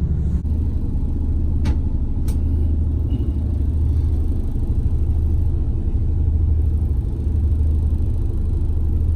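Boat engine running steadily under way, a low steady rumble. Two short clicks come about two seconds in.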